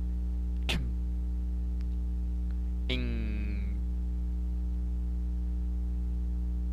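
Steady electrical mains hum from the recording setup, with a single click just under a second in and a short voice sound falling in pitch about three seconds in.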